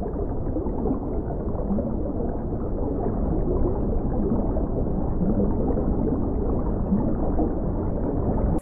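Aquarium water bubbling and gurgling: a dense, dull churn of bubbles with no pitched sound in it.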